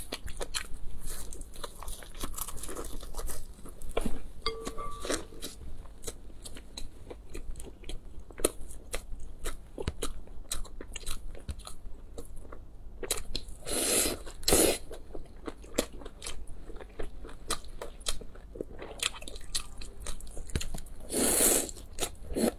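Close-miked eating: crunchy bites and chewing, with many sharp crackling clicks and a few louder, longer mouth noises around the middle and again near the end.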